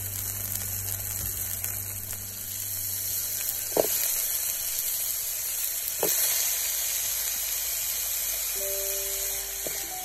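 Chopped scallions sizzling in hot oil in an aluminium pot, a steady high hiss, as pineapple chunks go in, with two sharp knocks against the pot about four and six seconds in.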